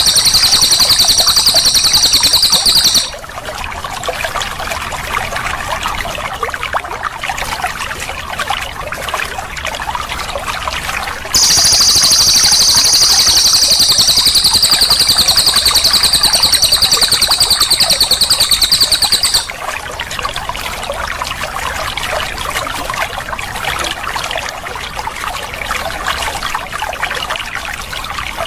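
Cililin songbird singing a long, very fast rolling trill in high notes, twice: once until about 3 seconds in, and again from about 11 to 19 seconds. Steadily trickling, flowing water runs underneath throughout.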